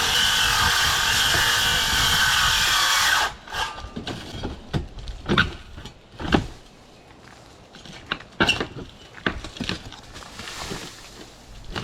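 A power tool runs loud and steady, then cuts off about three seconds in. After it come irregular knocks and thumps of wood being worked.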